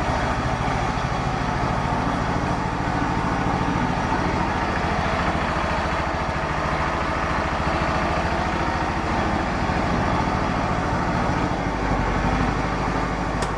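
An engine idling steadily, with a low, even pulse; its low note shifts slightly about twelve seconds in.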